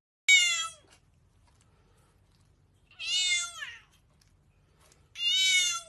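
A domestic cat meowing three times, about two and a half seconds apart; the middle meow falls in pitch at its end.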